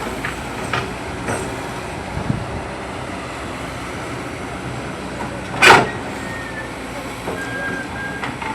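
Excavator's diesel engine running steadily, with one loud sharp bang a little past halfway through.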